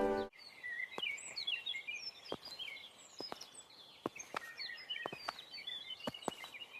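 Songbirds chirping in short, irregular twittering calls, with scattered sharp ticks among them.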